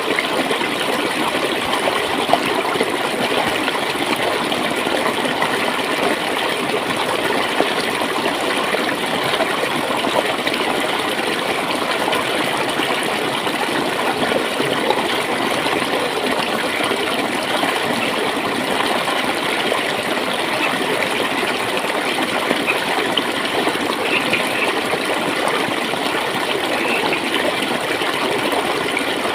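Running water flowing and gurgling steadily, an even rushing sound with no breaks.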